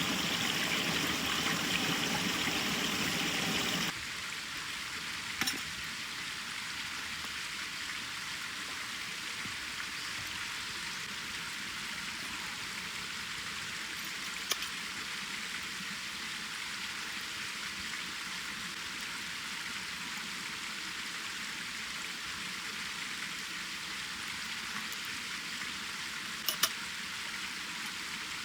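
Wood fire burning in a fire stand: a steady soft hiss with an occasional sharp crackling pop, three in all. For about the first four seconds a louder steady rushing sound covers it, then cuts off suddenly.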